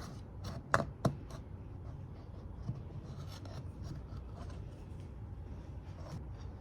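A knife pressed and drawn through slices of bread to cut out rounds: a soft scraping and rubbing, with two sharp taps a little under a second in.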